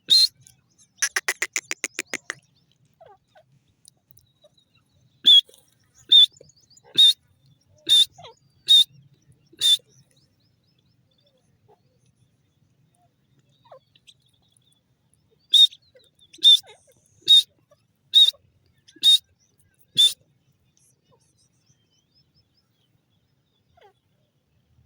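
Grey francolin calling: sharp, loud, high-pitched notes repeated about once a second in two series of six or seven. A fast rattling chatter comes in the first couple of seconds.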